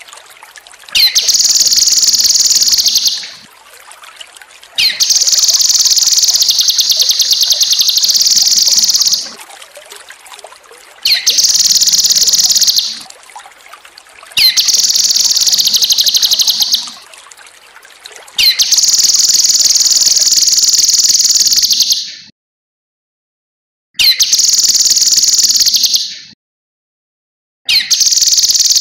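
Cucak kinoi (cucak rante mas) songbird singing loud, rapid chattering phrases of two to four seconds each, about seven in all, with short pauses between them. A faint trickle of water fills the pauses in the first half.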